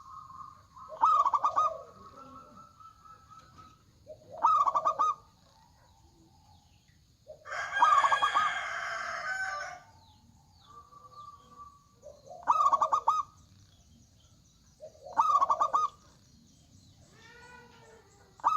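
Zebra dove (perkutut) cooing: short phrases of rapid staccato coo notes, repeated about four times. A rooster crows once about eight seconds in, the loudest and longest call.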